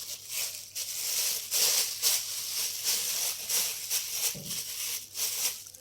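Plastic bag crinkling and rustling in irregular bursts as aspirin tablets are handled in it, ready to be crushed.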